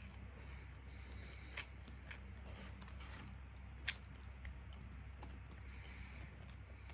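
Faint chewing and breathing of a person eating, over a steady low hum, with a few small clicks, the sharpest about four seconds in.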